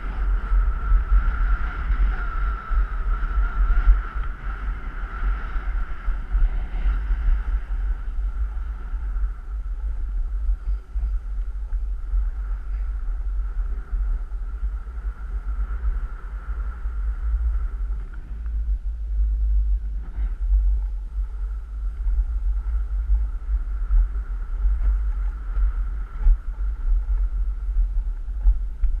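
Wind buffeting the microphone during a downhill run on the ski slopes: a steady, fluttering low rumble. A thin steady tone runs over it, strongest in the first eight seconds.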